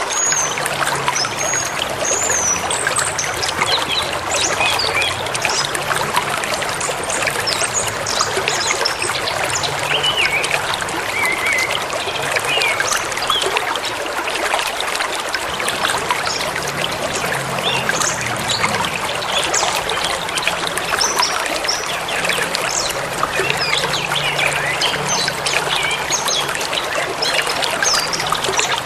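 A forest river rushing and trickling steadily over rocks, with songbirds chirping and whistling through it in short high calls.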